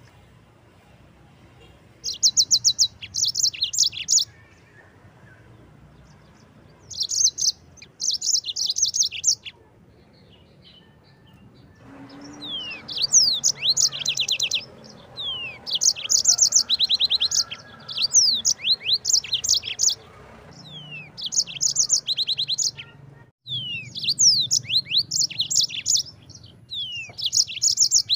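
Yellow-fronted canary (Mozambique canary) singing: phrases of rapid rolling trills of high repeated notes, mixed with quick downward-swept notes. The phrases come a few seconds apart at first, then follow one another almost without pause in the second half.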